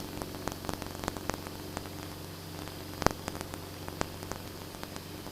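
Faint, steady low hum on an aircraft radio/intercom feed between transmissions, with scattered light clicks, the loudest about three seconds in.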